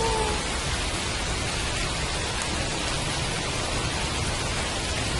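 Steady rain falling. The last of a wolf's howl slides down in pitch and fades out within the first half second.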